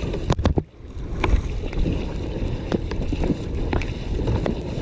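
Wind rumbling on the microphone out on the water in a kayak, with a few short knocks. The sound drops out briefly just under a second in.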